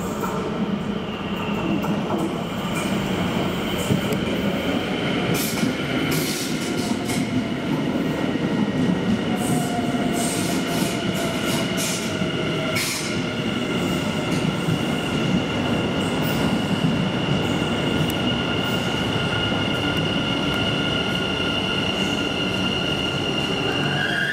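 NS Sprinter Lighttrain electric train pulling slowly into the station along the platform: a steady rumble of wheels on rail with a high, sustained squeal. About halfway through, a lower whine slides down in pitch, and a run of sharp clicks comes over the middle of it.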